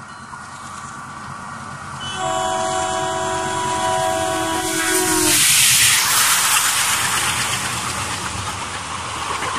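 Express train passing at speed. Its diesel locomotive sounds a multi-tone horn for about three seconds as it approaches, the pitch dropping as it goes by. Then comes the loud rush of the locomotive passing and the steady rattle of the coaches on the track.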